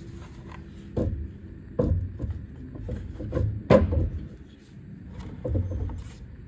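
Knocks and clicks of hand tools and engine parts being handled and set down on a workbench, three of them sharper, the loudest a little over halfway through.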